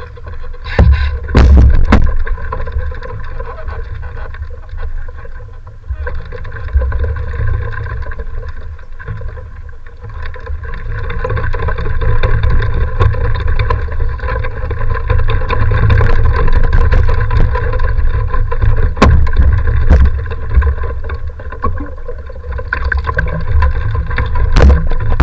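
Strong wind buffeting the microphone: a heavy, gusting low rumble that rises and falls, with a few sharp clicks and a faint steady hum underneath.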